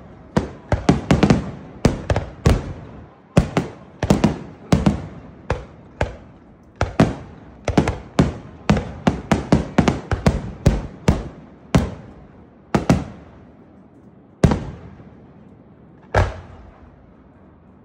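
Fireworks display: aerial shells bursting in a rapid series of bangs, each trailing off. The bangs come several a second at first, then thin out to single bursts a second or two apart, with a lull near the end.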